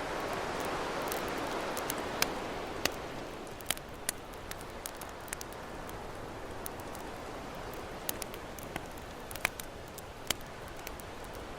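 Campfire crackling, with sharp pops scattered throughout, over the wash of ocean waves that swells in the first couple of seconds and builds again at the end.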